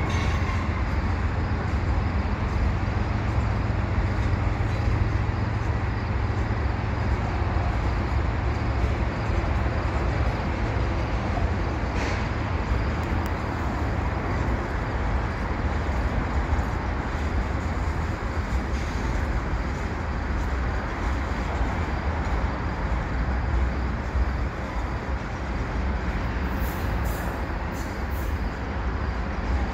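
Freight train cars rolling past: a steady rumble of steel wheels on rail, with one sharp click about twelve seconds in.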